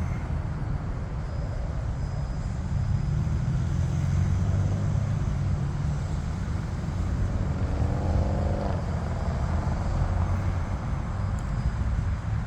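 Jet engines rumbling low and steady during takeoff. A brief rising whine comes in about two-thirds of the way through.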